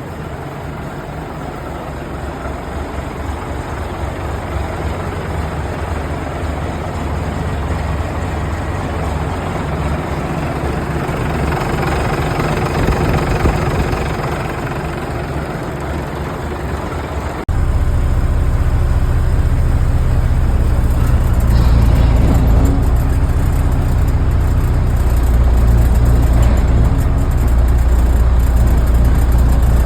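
1994 International 4900 dump truck's diesel engine running, growing louder over the first dozen seconds. About 17 seconds in the sound cuts abruptly to a louder, deeper running.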